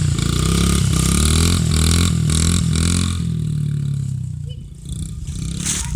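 Dirt bike engine revving up and down several times, then fading away after about three seconds.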